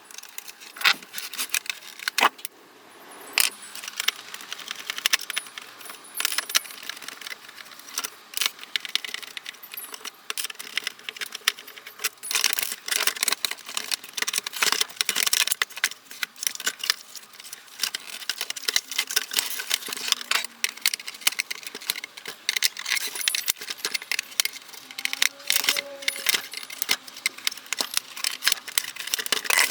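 Dense, irregular clicking and clattering of small hard parts and tools being handled while a coffee machine is taken apart.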